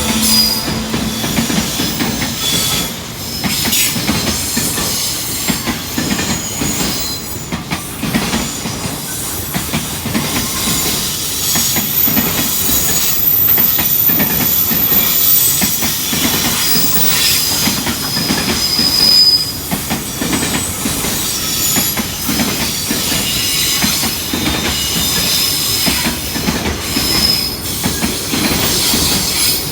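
Freight train rolling past, its wheels clattering over the rail joints with short high-pitched squeals of wheel on rail coming and going.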